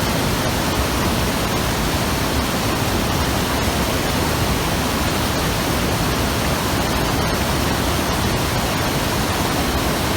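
Hayakawa river water rushing, a steady, unbroken flowing sound with no let-up.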